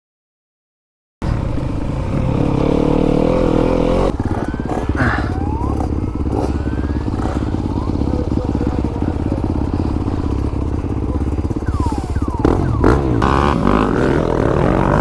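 Silence for about the first second, then a Fantic enduro dirt bike's engine running hard, its pitch rising and falling repeatedly as the throttle is worked.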